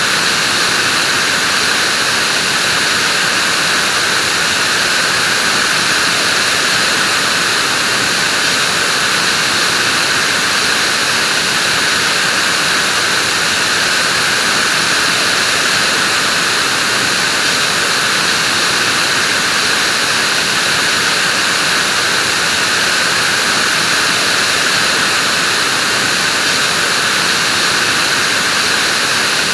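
Vacuum cleaner running steadily: an even, unchanging rushing whoosh of motor and airflow.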